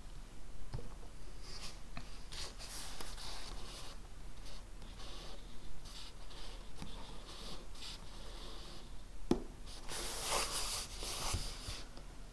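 Writing on paper: irregular scratchy strokes of a writing tool at a desk. There is a light knock about nine seconds in, followed by a denser, louder flurry of strokes.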